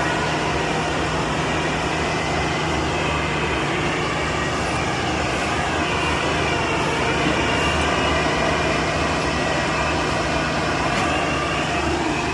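Heavy diesel farm machinery (tractor and combine harvester engines) running steadily, swelling slightly about two-thirds of the way through.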